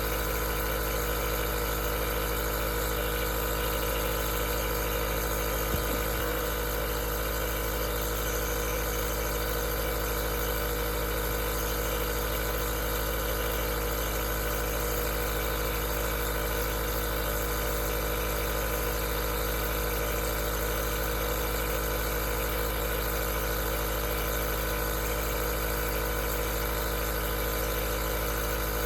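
Aerosol nebulizer's compressor running steadily, a constant hum with a hiss over it, and one small click about six seconds in.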